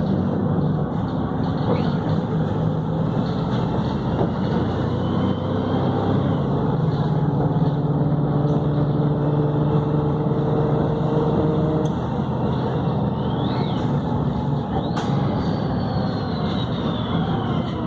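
Volvo B7RLE bus with a Voith automatic gearbox running under way. The diesel engine's note holds steady for several seconds, then drops away about twelve seconds in. Faint high whines rise and fall over it.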